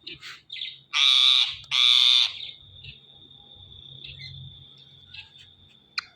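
Pet parrot giving two loud, harsh squawks about a second and two seconds in, each about half a second long, with short chirps before them and softer chirps after.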